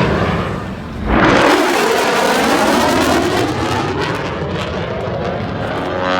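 Airplane engine noise as an aircraft flies past; the sound dips briefly, then swells loud about a second in and stays loud.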